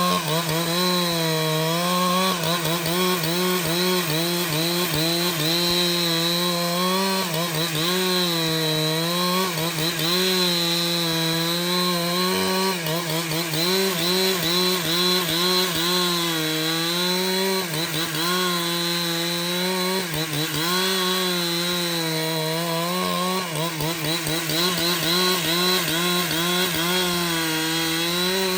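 Chainsaw running under load while cutting through wood, its engine pitch dipping and recovering again and again as the chain bites.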